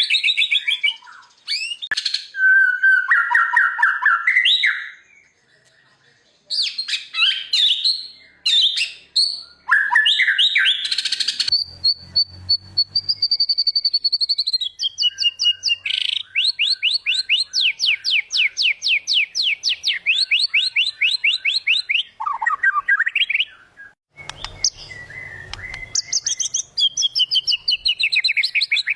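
White-rumped shama (murai batu) singing a loud, varied song of whistled phrases and mimicked notes, with short pauses between phrases. Near the middle comes a long held whistle, then a fast run of repeated notes.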